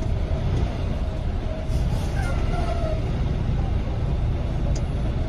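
Steady low rumble of a tractor-trailer training truck's diesel engine and road noise.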